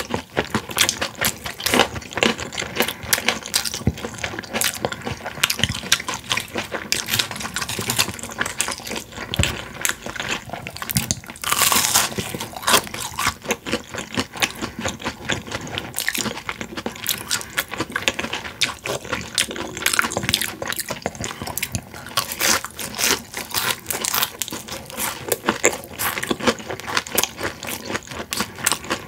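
Close-miked chewing of crispy boneless fried chicken: a dense run of crunches and wet mouth clicks, with a louder crunch of a bite about twelve seconds in.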